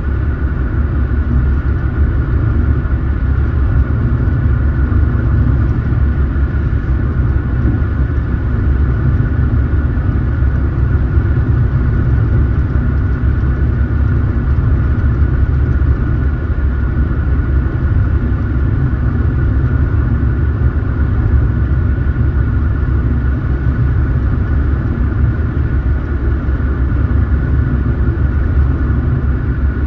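A car being driven: a steady, low road and engine rumble that holds an even level throughout.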